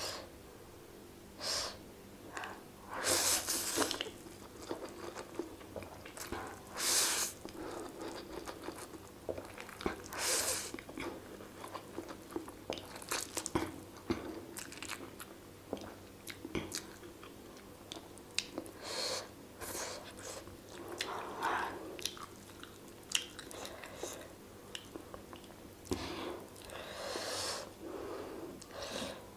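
A person eating: bites and chewing with some crunching, in irregular bursts every second or so.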